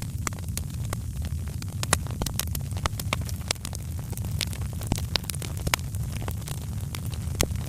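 Wood fire in a fireplace crackling, with many sharp irregular pops over a steady low rumble.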